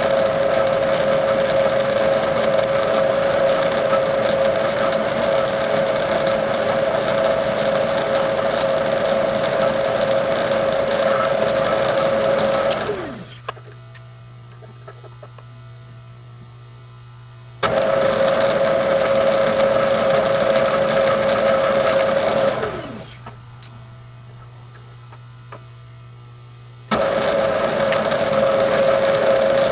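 Milling machine spindle motor running with a steady whine, spinning down twice with a falling pitch to a low hum. Each time the running sound comes back abruptly a few seconds later.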